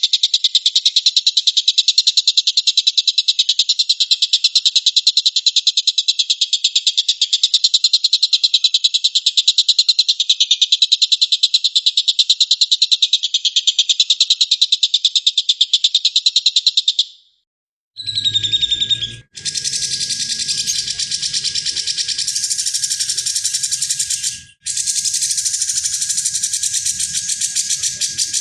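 A bird-master recording of a fast, continuous buzzing trill that cuts off abruptly about two-thirds of the way through. After a brief silence, a second, higher and buzzier trill follows over a low background rumble, broken twice by short gaps.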